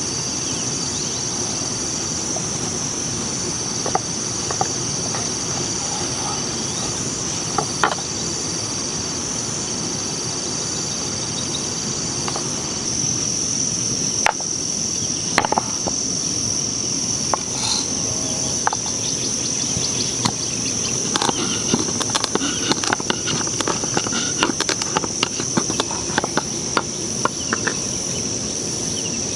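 A steady high-pitched insect chorus over a low, even outdoor rush, with scattered sharp clicks and taps that come more often in the second half.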